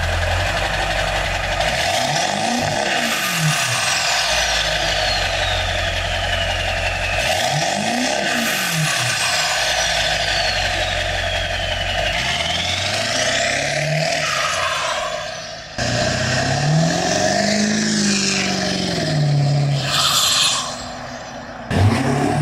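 Diesel pickup engine with a 5-inch turbo-back straight-pipe exhaust, revved about four times, each rev rising and falling in pitch. A high whistle falls in pitch after each of the first two revs. The sound breaks off abruptly twice near the end.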